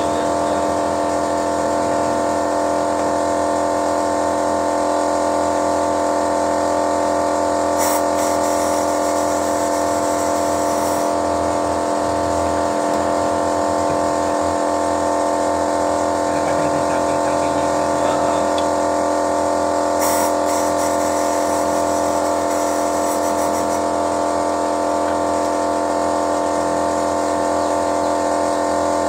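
2011 Toyota Yaris engine running at a steady speed during an engine carbon-cleaning flush. Two short hisses come in, about 8 and 20 seconds in.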